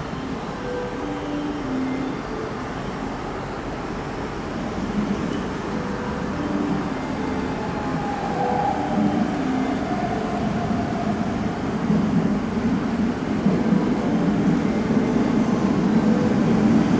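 Keihan electric train approaching the platform: running noise that grows steadily louder, with a thin whine drifting in pitch in the second half.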